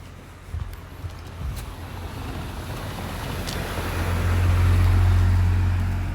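A motor vehicle passing on the road, its engine hum and tyre noise building to a peak about five seconds in and then starting to fade.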